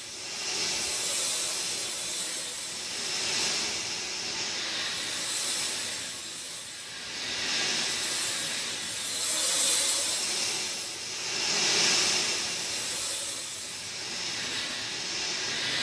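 Steady rain falling, an even hiss that swells and eases every few seconds.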